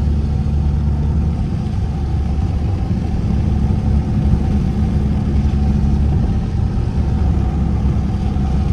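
Straight-piped exhaust of an SXT car, the engine droning steadily while driving at an even throttle.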